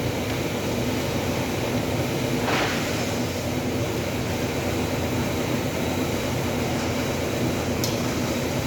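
Steady machine noise with a few short sharp clicks, one about two and a half seconds in and another near the end.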